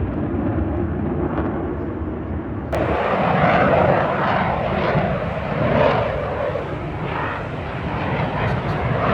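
Jet roar of an F-35 Lightning II's Pratt & Whitney F135 engine. About three seconds in it changes abruptly to a brighter, somewhat louder roar.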